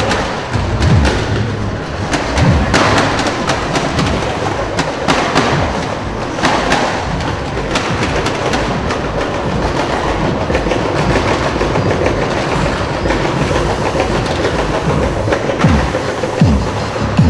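Loud, continuous rumble of modified cars' engines and exhausts, with a few low thuds.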